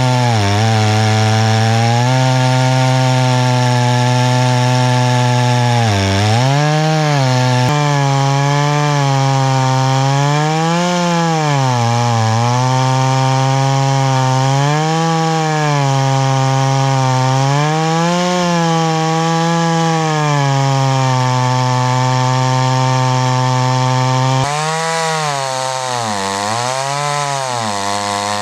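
Chainsaw engine running at high throttle in a chainsaw mill, ripping lengthwise through a green, wet log. Its pitch sags and recovers every few seconds as the engine bogs under the load of the cut.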